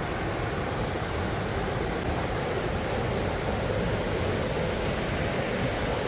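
Steady rush of river water pouring over a small rocky falls, growing slightly louder towards the end.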